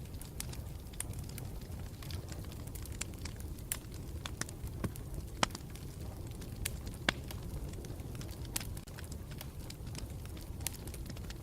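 Campfire burning, with a steady low rumble and irregular sharp crackles and pops, several a second, a few of them louder.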